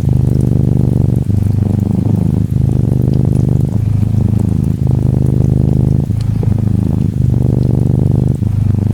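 Norwegian Forest Cat kitten purring close up: a steady low rumble that breaks briefly about every second and a quarter as the cat breathes in and out. Faint rain patters behind it.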